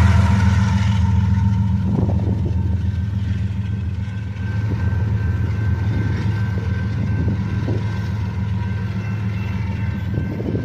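Diesel locomotive running as the rear distributed-power unit of a loaded coal train: a steady low engine drone that slowly fades as it moves off. Over the drone are a faint high squeal and a few knocks.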